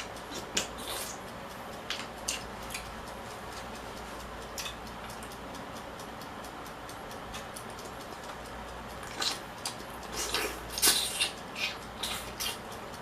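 Person eating: scattered sharp clicks and taps of eating, growing busier for the last few seconds.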